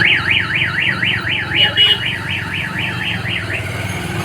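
Electronic warbling siren tone, sweeping quickly up and down about five times a second for about three and a half seconds before it stops, over the low hum of a motorcycle engine running.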